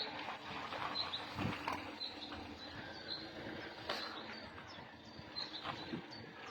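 A small bird chirping: short high chirps repeated at uneven intervals of about half a second to a second, over a steady background hum. A couple of sharp clicks are heard.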